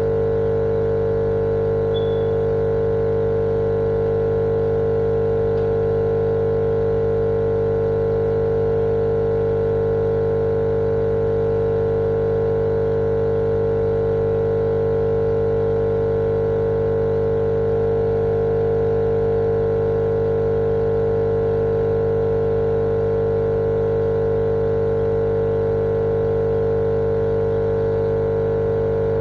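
Steady, unchanging droning hum with a strong mid-pitched tone over a fainter hiss, played continuously as sleep noise for babies.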